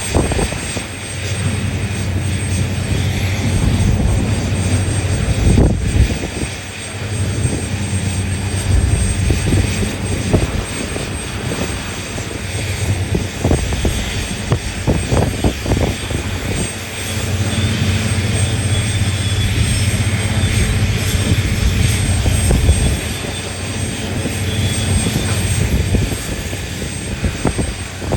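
Large diesel engines of heavy mining machinery, a hydraulic excavator and haul trucks, running with a steady low hum that swells and eases in load, with scattered clusters of knocks and clatter.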